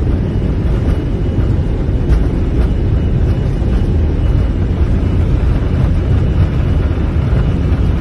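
Airbus A320 cockpit noise during a takeoff: a loud, steady low rumble of the jet engines and airflow, with a faint steady high whine above it.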